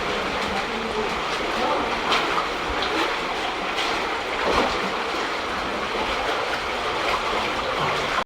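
Steady rushing of an underground stream flowing through a cave, with faint voices now and then.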